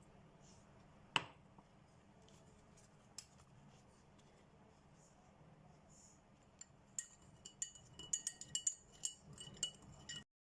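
Glass clinking in a fast run of short, ringing taps, starting about six and a half seconds in, as sodium carbonate solution is mixed into red cabbage indicator in a glass. There is a single sharp knock about a second in.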